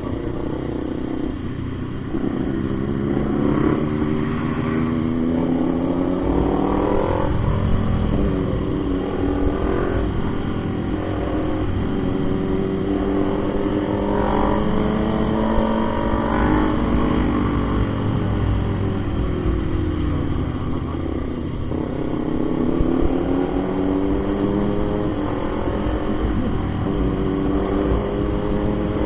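Motorcycle engine running under way, its pitch climbing and dropping several times as the bike accelerates through the gears and eases off, over a steady low rumble.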